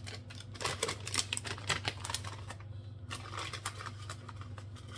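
Rapid clicking and rattling of seasoning being shaken from a container onto raw chicken feet, in two spells, over a steady low hum.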